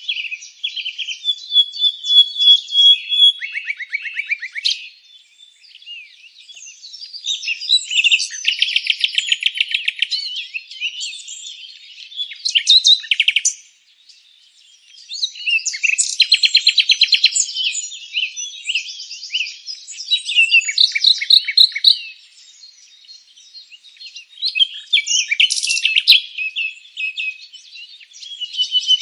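Songbirds singing and chirping in bursts of rapid trills and repeated chirps, with several songs overlapping. There are brief lulls about six and fourteen seconds in.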